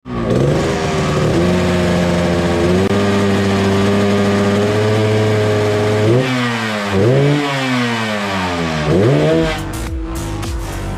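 Yamaha RX-King two-stroke single-cylinder engine held at high revs for several seconds, then blipped three times, the pitch sliding down after each blip. Electronic music with a beat comes in near the end.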